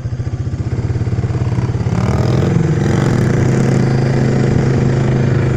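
Small off-road vehicle engine running under throttle. It gets louder over the first two seconds or so, then holds a steady note.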